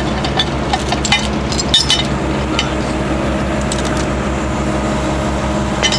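An engine running steadily at idle, with scattered sharp clicks and knocks of tools on pipe fittings during the first couple of seconds.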